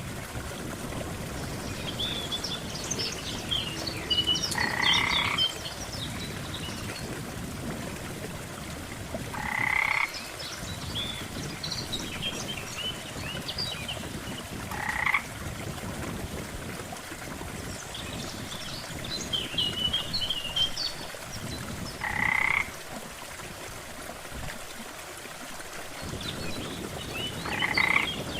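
Frogs croaking by a lake, one call about every five seconds, over a steady hiss of water. Higher chirps sound between the croaks.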